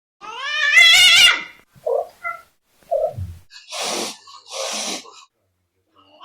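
An animal's loud wavering call, rising in pitch and lasting about a second, then a few short blips and two breathy, noisy exhalations about a second apart.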